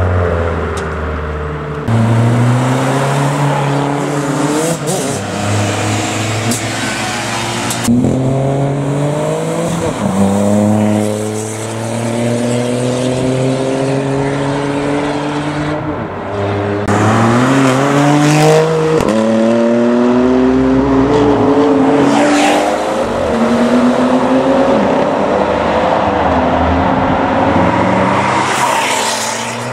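Car engines accelerating hard several times, each rising in pitch through the revs and dropping back at the gear changes.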